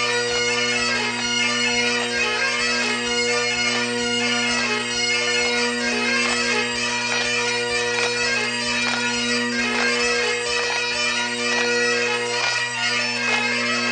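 Bagpipes playing a quick tune of fast-changing notes over their steady drones.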